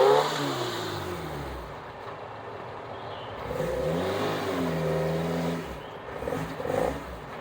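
Off-road side-by-side engine revving up and easing off twice while crawling over rocks: a rev peaking at the start, then a second one about three seconds in that holds briefly and drops off.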